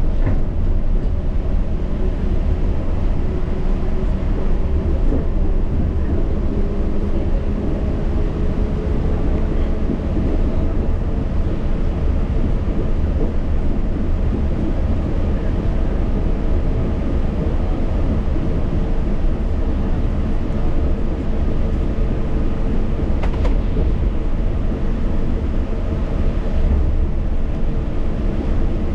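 Yurikamome Line rubber-tyred automated guideway train running on its concrete guideway, heard from the front car: a steady low rumble with faint humming tones from the drive, one rising slightly over the first ten seconds. A brief click about 23 seconds in.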